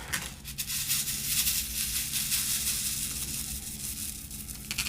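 Diamond-painting resin drills rattling in a plastic sorting tray, a steady fine hissing shimmer of many tiny plastic pieces clicking together as the tray is shaken.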